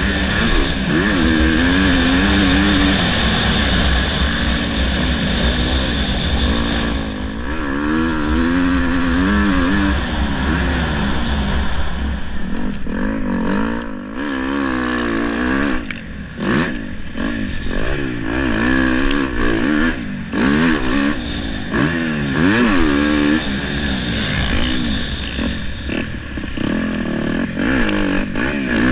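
Dirt bike engine running hard, its pitch climbing and dropping again every second or two as the throttle is worked.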